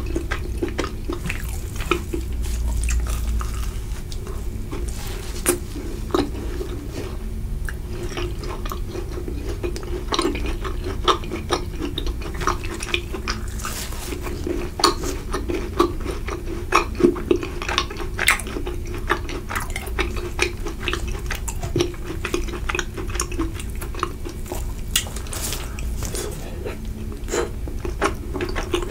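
Close-miked eating of macarons: their crisp shells crackle as they are bitten, followed by chewing with many small, sharp clicks and wet mouth sounds.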